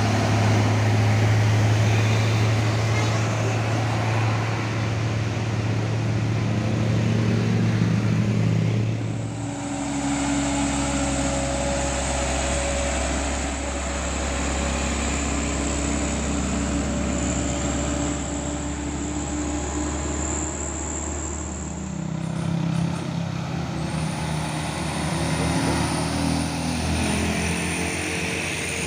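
Heavy diesel trucks labouring up a steep grade under load, a deep steady engine note. The note changes about a third of the way through and again about two-thirds of the way through as one truck gives way to the next.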